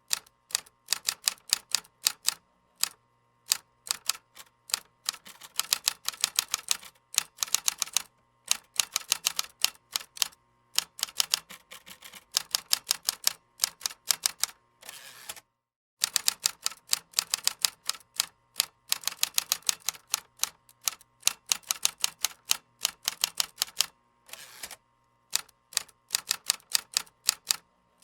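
Typing on a computer keyboard: quick runs of sharp key clicks with short pauses between them. The sound breaks off completely for a moment about halfway through, then resumes.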